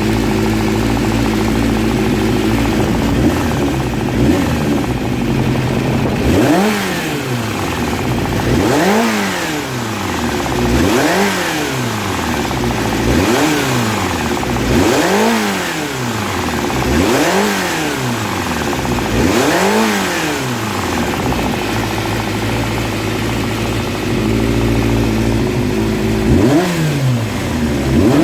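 Honda CBX400F's air-cooled inline-four engine idling, then blipped seven times in a row about two seconds apart, dropping back to idle and revved once more near the end. The engine is warm, and the owner reports that it makes an abnormal noise once warmed up.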